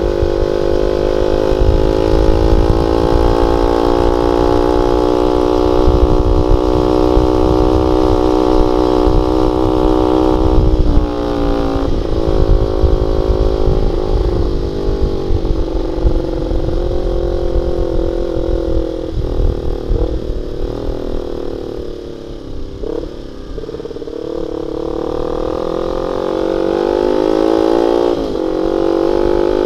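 Honda Sonic 150R's single-cylinder four-stroke engine through a CLD X Monster aftermarket exhaust with a half baffle, the bike under way. The engine holds a steady high pitch, drops sharply about a third of the way in, and sinks slowly as it slows. Near the end the pitch climbs again as it accelerates.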